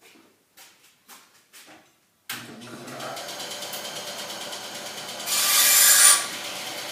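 A few short rubbing strokes, like hand filing or sanding on a small part. About two seconds in, a small motor-driven tool starts suddenly and runs steadily, louder for a moment near the end.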